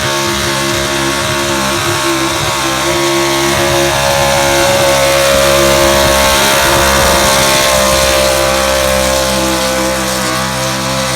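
Pulling truck's engine held at full throttle and high revs, steady in pitch, as it drags a weight-transfer sled down the pulling track. It is loudest midway and eases slightly near the end.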